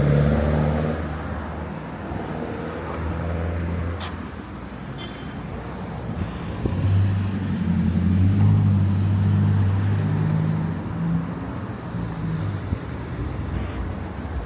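Street traffic: low motor vehicle engine hum. One engine fades over the first couple of seconds and another grows louder about seven seconds in, then fades after about eleven seconds.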